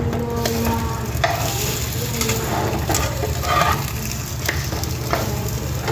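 Egg-soaked bread slices sizzling as they fry in a nonstick pan, with a metal spatula scraping and knocking against the pan several times as the slices are pushed and flipped.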